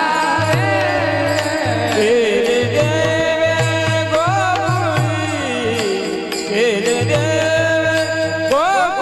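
Devotional kirtan singing: a voice sings long, wavering held notes over deep drum beats about twice a second.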